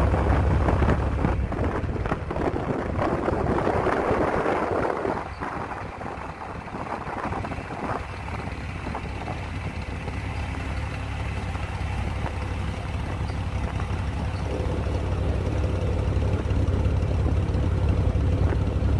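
Heavy engine running steadily with a deep hum, with a loud rushing hiss over it for the first few seconds that then fades.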